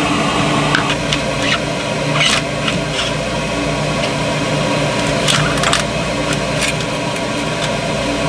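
Steady machinery hum throughout, with scattered clicks, taps and scrapes from hands and tools working at a stuck engine exhaust hose.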